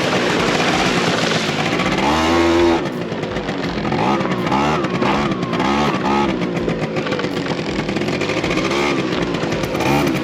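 Small motorbike engine revving up and down over and over as the bike is ridden through shallow water. A loud rushing noise sits under it for the first few seconds and drops away about three seconds in.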